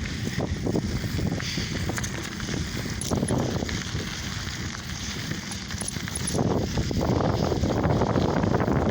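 Wind rushing over a phone microphone and tyre and road noise from a lowrider bicycle being ridden; the rush grows louder about six and a half seconds in.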